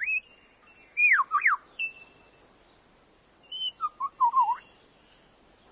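Superb lyrebird singing whistled phrases: a short high note, then sharp downward-sweeping whistles about a second in, a held note, and a cluster of warbled notes around four seconds in.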